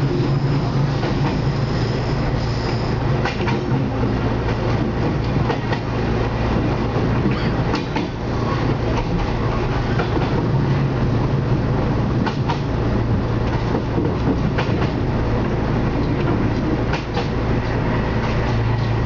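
Diesel railcar running steadily along the line, heard from inside its passenger compartment: a continuous low engine and running hum, with the wheels clicking over rail joints in pairs every four to five seconds.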